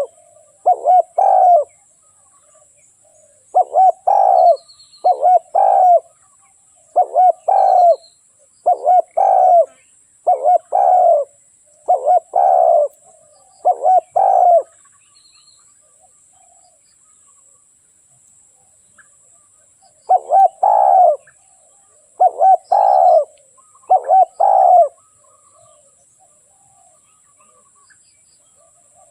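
Spotted dove cooing: short phrases of a few low coos, repeated about every second and a half, stopping for a few seconds midway and then starting again.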